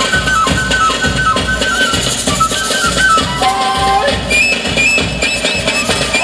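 Peruvian folk dance music: a flute melody moving in short steps over a steady drum beat.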